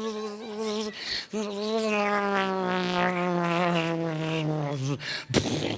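A man's voice holding long notes: a wavering note, then a long note that slides slowly downward in pitch, followed by a sharp knock near the end.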